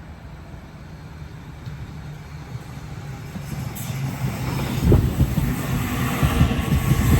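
A train approaching, its low rumble growing steadily louder, with heavy thumps from the wheels starting about five seconds in.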